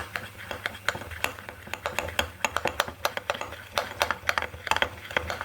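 A spoon stirring a mixture of warm water, sugar and baking powder, clinking quickly and unevenly against the sides of its container, several clicks a second.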